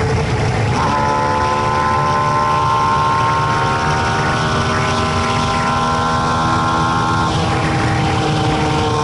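JUN Synergy 2.4-litre V8 in a Subaru BRZ race car under power, heard from inside the cabin: the engine note holds a steady pitch for several seconds, then breaks off about seven seconds in, and the pitch falls away.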